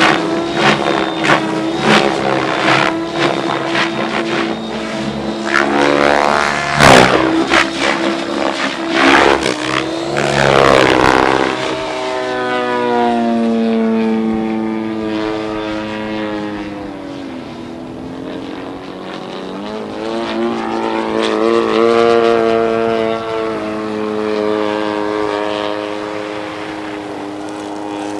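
RC helicopter flying 3D aerobatics: the whine of its rotor and motor rises and falls in pitch as it manoeuvres. Many sharp cracks come through the first half, the loudest about seven seconds in, and the second half is a smoother whine that dips and rises again.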